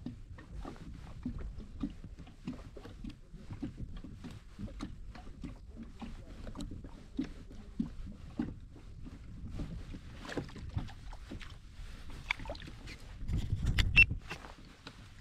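Sounds on a fishing kayak: water lapping against the hull with many small, irregular knocks, and one louder knock near the end.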